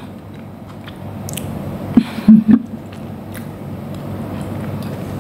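A woman chewing a mouthful of potato and goat-meat stew, with a short closed-mouth hum of enjoyment about two seconds in.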